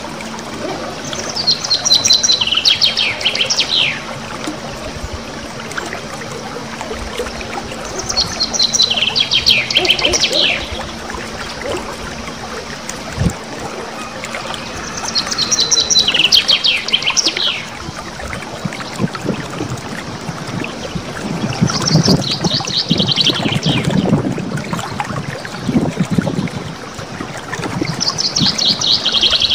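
A small songbird singing a rapid rolling trill that falls from high to lower pitch, each phrase lasting about two to three seconds and repeated five times at roughly seven-second intervals, over a faint trickling-water background.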